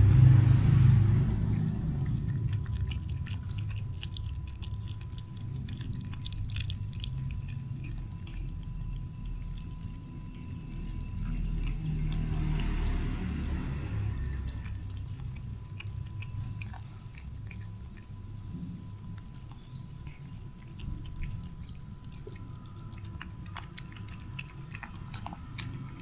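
Cats eating, with small chewing and crunching clicks scattered throughout over a low steady rumble.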